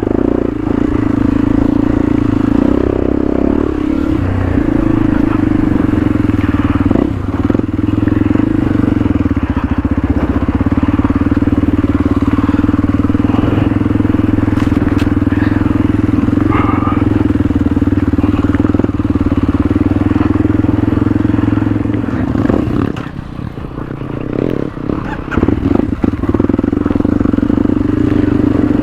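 Motorcycle engine running steadily while riding. Near the end it drops off for a couple of seconds, as when the throttle is closed, then picks up again.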